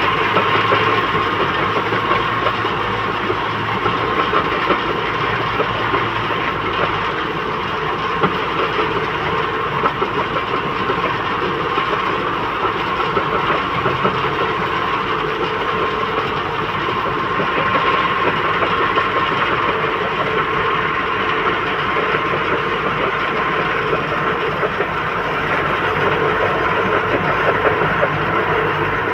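Heavy diesel machinery running steadily, an engine with a constant high whine over its low hum.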